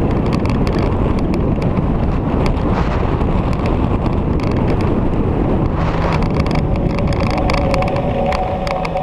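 Victory V-twin motorcycle under way, heavy wind rush over the microphone mixed with engine and road noise. A steady high whine comes in near the end.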